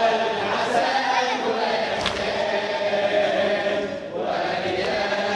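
A choir of voices chanting in long held tones, the vocal backing of a Shia latmiya elegy between the soloist's lines, dipping briefly about four seconds in.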